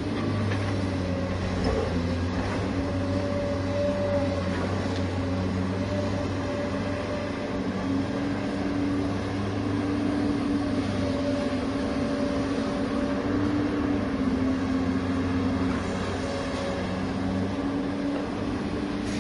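Toy RC excavator's small electric motors and plastic gearboxes whirring steadily as it works its arm against a toy bulldozer: a low hum with a higher whine that wavers a little in pitch.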